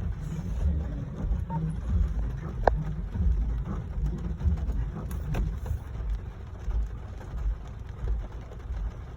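Low rumble of a vehicle under the even hiss of rain, with a couple of faint clicks about three and five seconds in.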